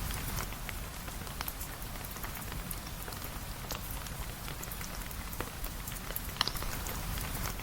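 Steady rain mixed with a wood fire in a fireplace, with scattered sharp crackles throughout and one louder pop about six and a half seconds in.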